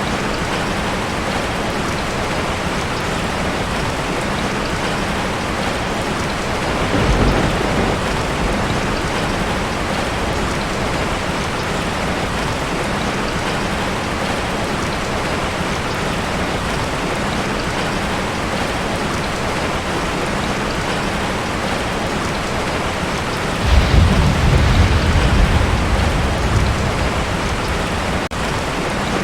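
Heavy rain drumming steadily on a tin roof. Thunder rumbles briefly about a quarter of the way in, and a louder, longer roll of thunder comes near the end.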